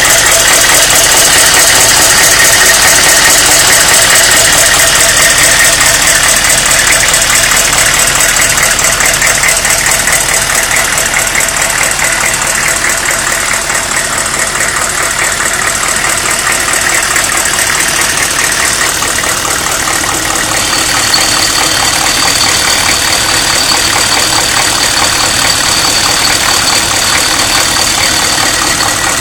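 1995 Chevrolet Suburban's 6.5 L turbo-diesel V8 idling warm, a loud steady diesel clatter, carrying an odd sound from the right side of the engine that the owner cannot identify. A thin, steady high whine joins about twenty seconds in.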